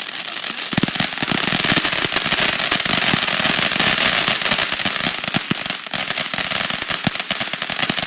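Consumer firework going off: a steady hiss, with dense, rapid crackling starting about a second in and continuing.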